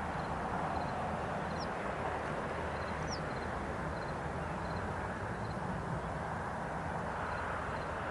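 Steady jet engine rumble of an Airbus A320 on the runway after landing, heard from outside the airfield. Faint bird chirps sound three times over it.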